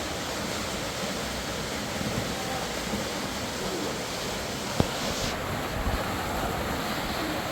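Steady rushing of a fast-flowing river, with a sharp knock about five seconds in.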